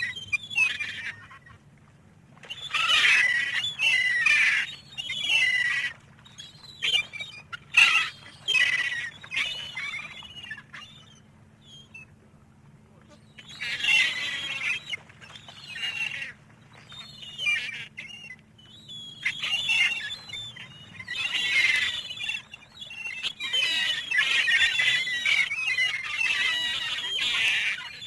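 Gulls squawking and crying in repeated bouts of a second or two each, with a brief lull partway through.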